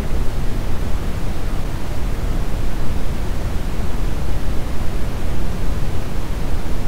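Brown noise: a steady, even hiss weighted heavily toward the low end, like a deep rumble with little treble.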